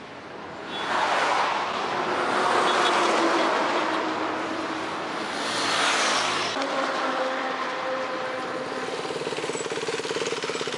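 Motorcycle engine running: a loud rushing swell in the first half, then a steadier engine note with a fine, even pulsing in the second half.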